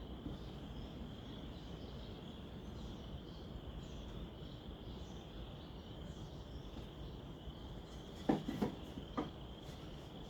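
Crickets chirring steadily in a high, even trill. Near the end come three short wooden knocks as a picket piece is set in place.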